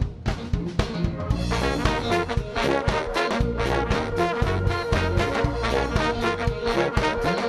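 Live funk-soul band playing an instrumental intro: drums and bass to a steady beat, with a horn section coming in about a second and a half in.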